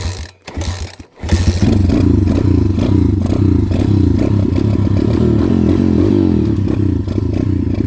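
140cc pit bike's single-cylinder four-stroke engine being kick-started: a couple of short sputters, then it catches about a second in and runs steadily.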